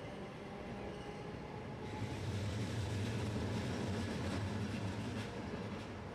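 Rail vehicle running by. It grows louder about two seconds in, with a steady low hum.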